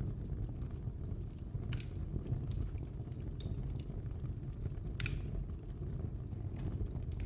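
Wood fire burning in a fireplace: a steady low rumble of flames with scattered sharp crackles and pops, the loudest about two seconds in and again about five seconds in.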